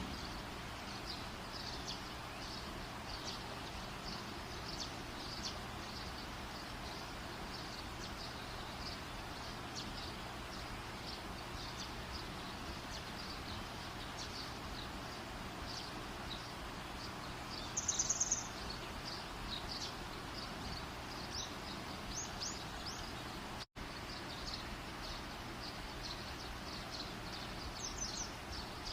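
A campfire's steady rushing hiss with many small high ticks, under birds chirping now and then, including a quick trilled call about 18 seconds in. The sound cuts out for an instant about 24 seconds in.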